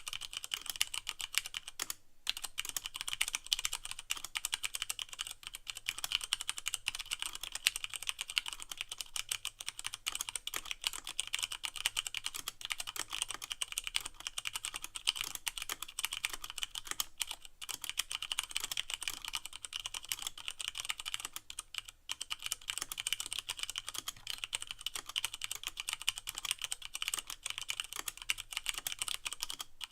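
Fast, continuous typing on a Leopold FC660M mechanical keyboard with Cherry MX Brown switches and no O-rings, keys bottoming out with bright, clacky clicks, with short pauses about two seconds in and about two-thirds through.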